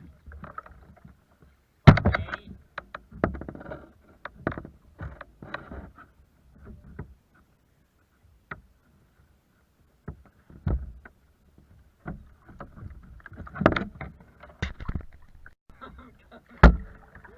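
Kayak on the water: irregular knocks and bumps against the hull mixed with splashing water, loudest about two seconds in and again near the end, with a quieter lull in the middle.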